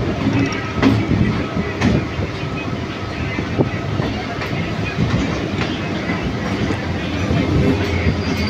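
Suburban electric local trains running side by side, heard from an open carriage doorway: a steady rumble and rattle with a few sharp clacks of wheels over rail joints.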